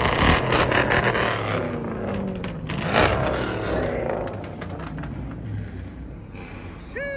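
Car engine revved through its exhaust, loud and rising and falling in pitch, with sharp cracks here and there.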